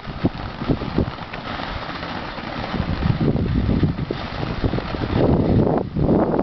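A 500-gram consumer firework fountain burning: a dense hissing spray with many irregular pops and crackles, getting louder about five seconds in.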